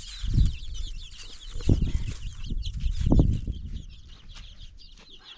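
Many birds chirping constantly, high and dense, typical of a flock of poultry or chicks. Three dull low thumps come in the first three seconds or so.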